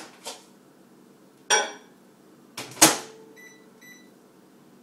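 Microwave oven being shut and started: a clunk, then a louder bang of the door closing, followed by two short high keypad beeps as the heating time is entered.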